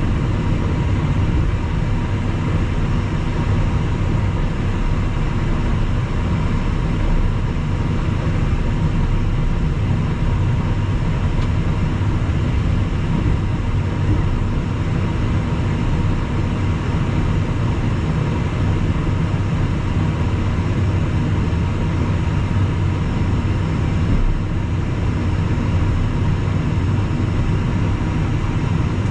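Steady cockpit noise of a Cessna Citation Mustang twin-turbofan business jet: a constant low rumble of engine and airflow with a faint steady hum, unchanging throughout.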